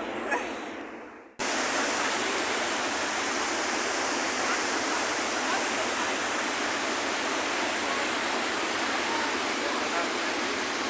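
Iguaçu Falls: the steady rush of a large waterfall, which begins abruptly about a second and a half in, after a brief fade to quiet.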